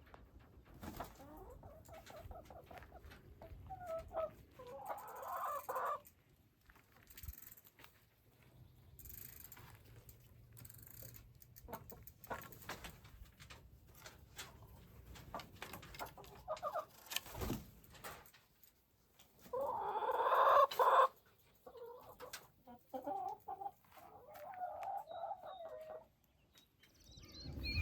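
Clucking bird calls in several short runs, the loudest about twenty seconds in, with small clicks and rustles between them.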